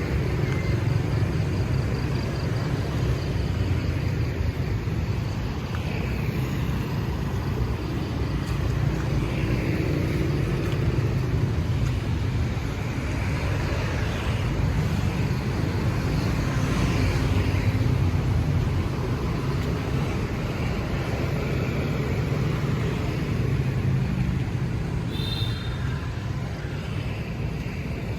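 Road traffic: motor vehicles passing in a steady, rumbling stream that swells and fades, with a brief high-pitched beep near the end.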